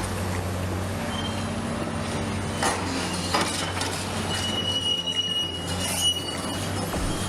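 Rail demolition with a Caterpillar 385C excavator and Eberhard rail-removal equipment: a steady low engine hum under metal-on-metal clanks and knocks, with a high steady squeal of steel lasting a second or two past the middle.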